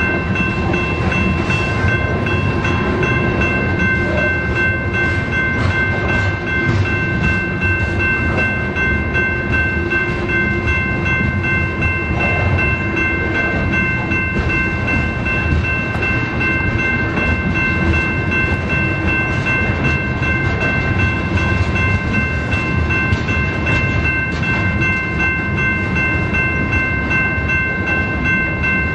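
A BNSF freight train rolling past, with a continuous heavy rumble of railcars and faint irregular clicks, and a steady high-pitched ringing tone held throughout.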